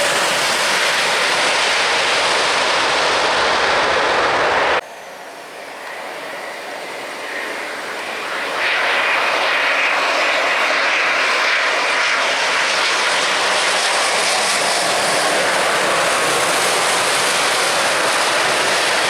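Airliner engines, loud and steady. The sound drops off suddenly about five seconds in, builds back up, and is at full loudness again from about nine seconds in.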